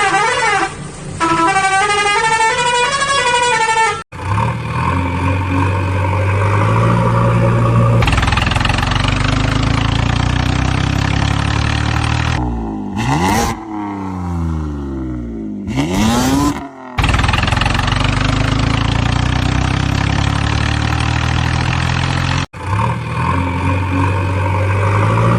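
Engine sounds cut together in abrupt segments. It opens with wailing tones that rise and fall like a siren, then steady engine running, then engine pitch sweeping up and down in the middle, then steady running again.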